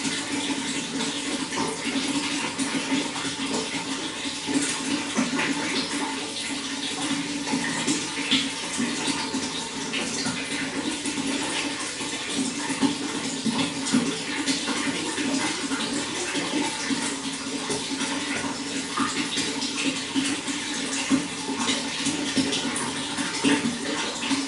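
Running water flowing steadily, with frequent small splashes throughout.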